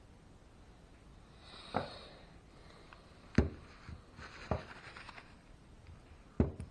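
Small RC car parts being handled and set down on a workbench: four sharp knocks and clicks a second or so apart, with light rustling between them.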